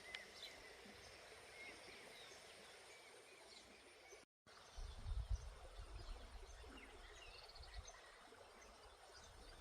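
Faint outdoor ambience with scattered short bird chirps. A brief dropout comes about four seconds in, followed by low rumbles.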